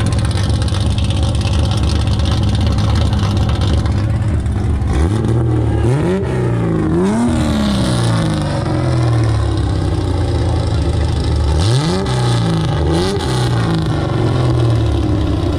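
Car engine idling with a low drone, revved in short blips: two quick revs about five seconds in and two more about twelve seconds in, each rising fast and falling back slowly.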